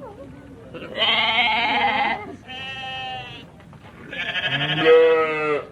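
Sheep bleating three times, quavering calls, the middle one quieter.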